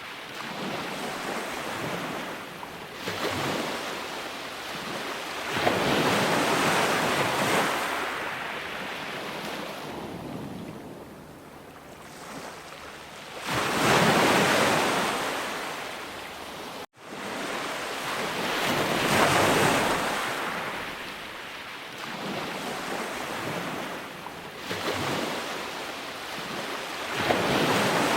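Ocean surf, waves breaking and washing up a shore, each one swelling and fading every few seconds. The sound cuts out for an instant about two-thirds of the way through.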